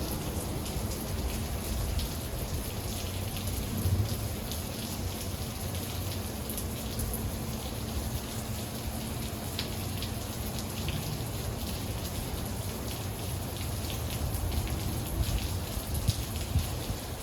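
Heavy rain pouring down steadily, with individual drops ticking sharply here and there over the even hiss of the downpour.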